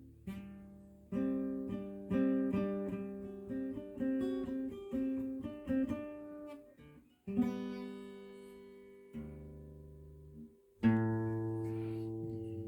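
Acoustic guitar playing: a quick run of picked notes, then three chords, each left to ring out for a second or two.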